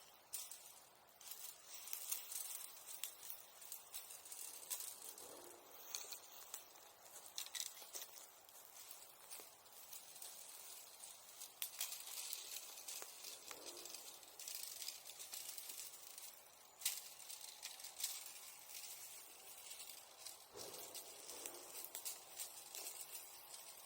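Bonfire embers crackling faintly, with many small irregular ticks and snaps.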